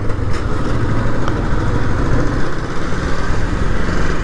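Yamaha Fazer motorcycle running steadily while being ridden, its engine under a heavy rumble of wind buffeting the microphone.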